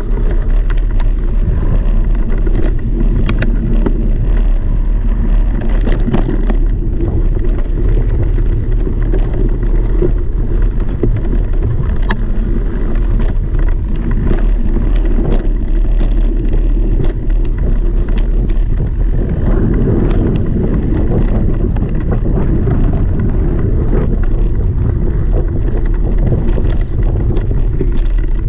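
Off-road vehicle running steadily over rough ground, its low engine drone mixed with wind buffeting the microphone and scattered brief knocks.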